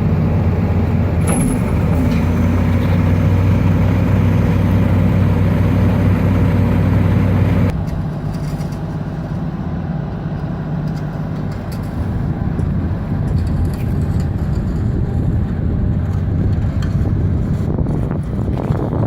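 Wirtgen W 100 F cold milling machine's six-cylinder Cummins QSC 8.3 diesel engine running with a steady hum. About eight seconds in, the sound drops suddenly in level and becomes rougher.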